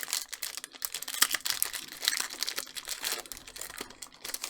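Foil booster-pack wrapper crinkling and crackling as it is handled, a dense run of irregular crackles.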